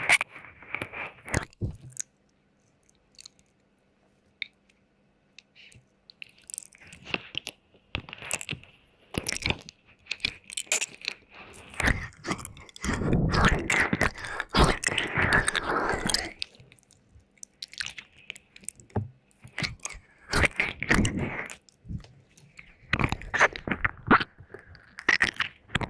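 Close-miked ASMR wet mouth sounds: irregular clusters of sharp wet clicks, smacks and licking. There is a pause of a few seconds near the start and a dense run of sounds about halfway through.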